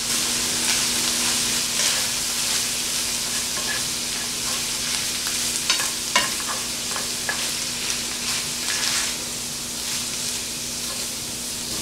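Ground pork filling frying and sizzling in a nonstick skillet while a silicone spatula stirs and scrapes it, with a few sharper scrapes against the pan.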